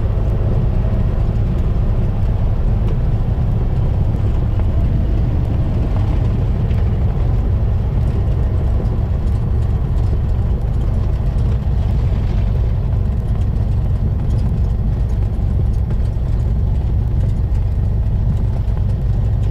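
Cessna 172's piston engine running steadily, a low drone heard from inside the cockpit.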